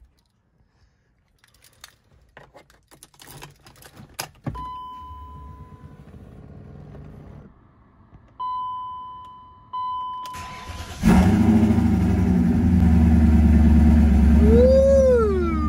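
Keys rattle with a few clicks, then the dash gives a steady electronic chime followed by two shorter beeps as the ignition comes on. About eleven seconds in, the BMW E39 M5's S62 V8 cranks, catches and settles into a steady idle, its first start after sitting over a month during a clutch replacement.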